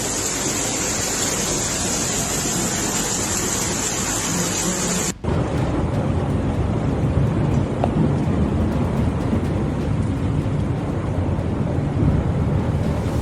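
Heavy rain and rushing water, a steady loud hiss. About five seconds in, an abrupt cut to another stretch of storm noise that is deeper, with a strong low rumble.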